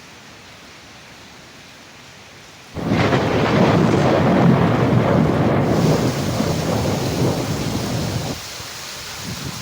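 Rain hissing steadily. About three seconds in, a sudden loud, deep rumble of thunder starts and lasts about five seconds, then eases back to the rain near the end.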